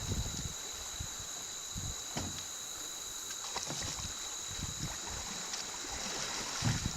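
Canoe paddling in shallow water: water sloshing and irregular low knocks and bumps, the loudest near the end, over a steady high drone of insects.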